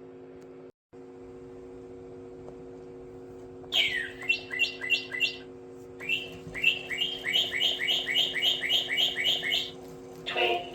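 Toy singing bird chirping in two quick runs of short, evenly spaced downward chirps, about four a second, over a steady low electrical hum.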